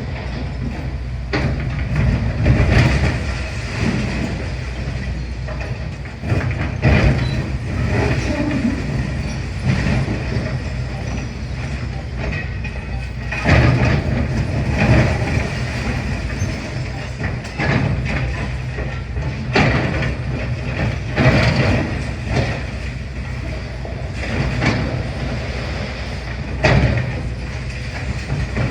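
Demolition excavator running steadily, with irregular crashes and crunches of falling masonry and some high metal scraping as it breaks up a building.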